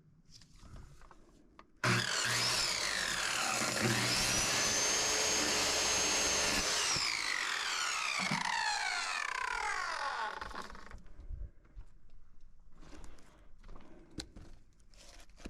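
An electric saw starts with a rising whine, runs at full speed for about five seconds, then winds down with a falling whine that fades over a few seconds.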